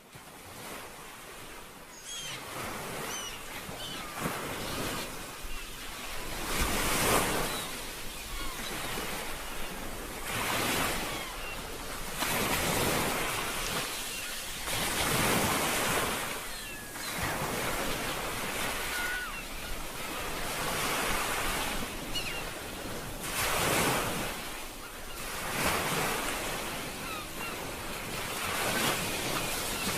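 Ocean waves washing onto a shore, each swell rising and falling every few seconds, fading in at the start. Faint short high chirps sound now and then over the surf.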